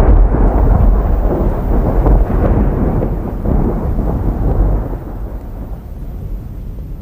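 A long rolling rumble of thunder, loud at first and fading away over the last couple of seconds.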